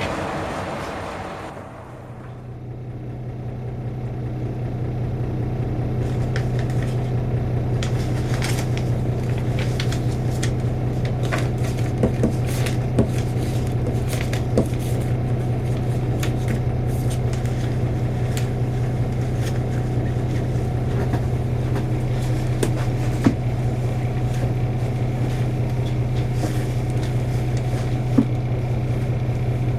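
A train's rumble fades away over the first two seconds, then a diesel railcar engine idles with a steady low hum, heard from inside the railcar standing at a station. A few faint clicks come now and then.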